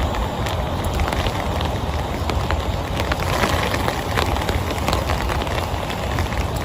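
Heavy rain falling steadily, with many sharp individual drop impacts on a nearby surface.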